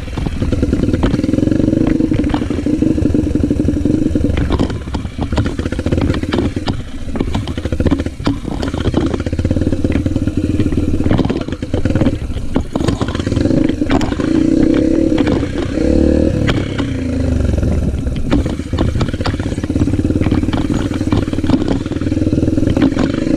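Yamaha motocross motorcycle engine running, its revs sinking and rising several times, with frequent clattering knocks over it.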